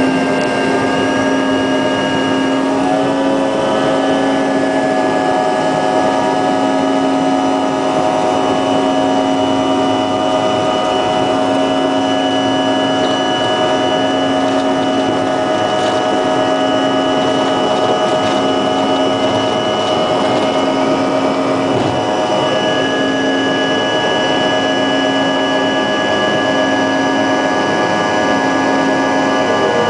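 Jet airliner engines running steadily, a loud whine of several held tones over a constant rush, some of the tones stepping up slightly about three seconds in.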